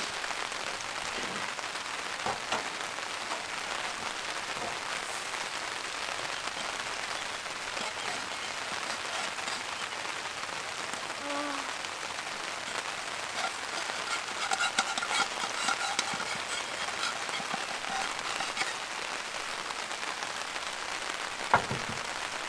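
Steady rain falling on a tarp overhead. A cluster of light clicks comes in the middle, and a sharp tap sounds near the end.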